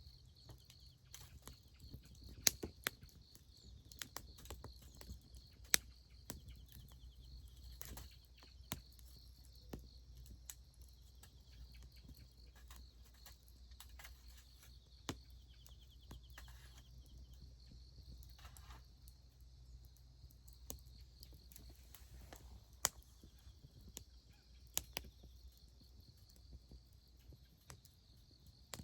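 Wood campfire crackling, with irregular sharp pops and snaps, over a steady high chirring of insects.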